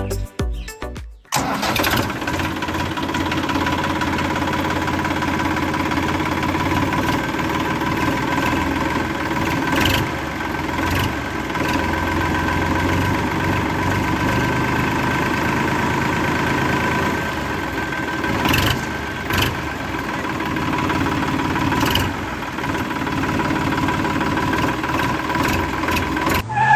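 The DIY mini tractor's motor running steadily with a constant whine while the machine is stuck in heavy mud. A few brief sharp knocks cut across it.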